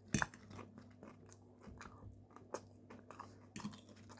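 Close-miked chewing and crunching of food in the mouth, with one loud bite just after the start and smaller irregular crunches after it.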